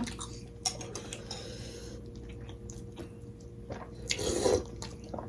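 Close-up eating sounds: wet chewing with small mouth clicks, and a louder wet noise about four seconds in.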